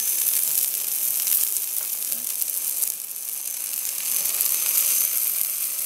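Sliced wood mushrooms and onions sizzling in hot olive oil in a frying pan as the mushrooms go into the pan: a steady hiss with fine crackling.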